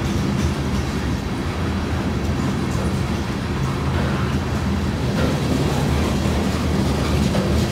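Covered hopper cars of a freight train rolling past at speed: a steady, loud rumble of steel wheels on rail.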